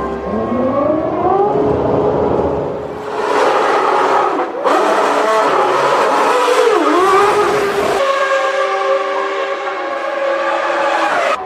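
Formula One race car engines running at high revs: the pitch rises steeply as a car accelerates, dips briefly on a downshift, then holds high and steady. The sound changes abruptly a few times as the picture cuts between camera shots.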